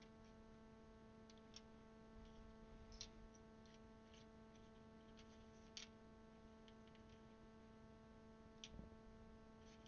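Near silence with faint, irregularly spaced clicks of keycaps being handled and pressed onto a mechanical keyboard's switches, over a steady low hum.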